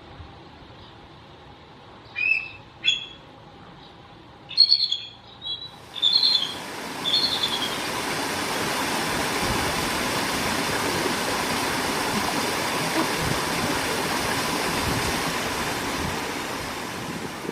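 Several short bird calls in the first half, then a steady rushing noise takes over for about ten seconds and fades near the end.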